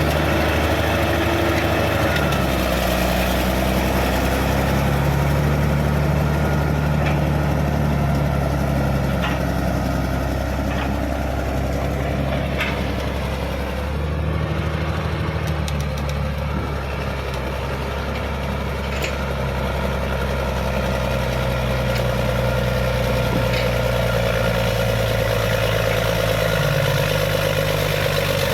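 Caterpillar D6D bulldozer's diesel engine running steadily, its note shifting a little as the load changes, with a few faint clanks.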